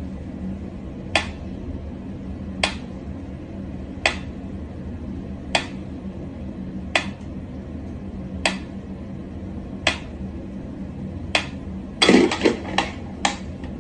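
Mechanical pendulum metronome ticking slowly, one sharp tick about every second and a half. Near the end a quick flurry of knocks and clicks as a cat leaps at it.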